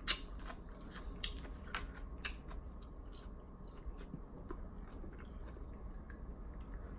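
A person chewing a mouthful of food close to the microphone. There are a few sharp crackly clicks in the first two and a half seconds, then softer, sparser chewing.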